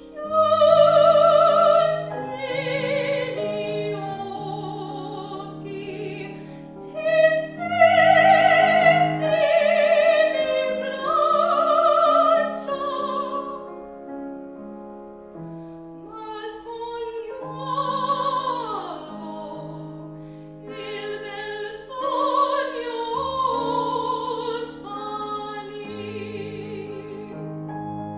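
Classical singer performing an art song or aria in operatic style with piano accompaniment: long held notes with vibrato, phrases with short breaks, and a falling sung run about two-thirds of the way through.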